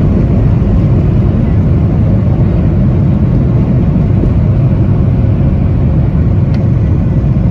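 Loud, steady rumble of a Boeing 737-800's CFM56-7B jet engines and airflow heard inside the passenger cabin, the aircraft under power during take-off or the climb-out after it.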